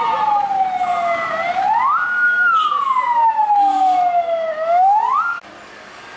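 Emergency vehicle siren on a slow wail: the pitch rises quickly, holds briefly at the top, then falls slowly, about two full cycles, before it cuts off suddenly near the end.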